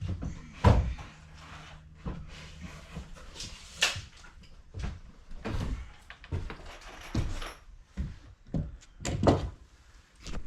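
Irregular knocks and thuds from carpentry work on a mobile home wall, with lumber and tools being handled and struck; the loudest knocks come about a second in and near the end.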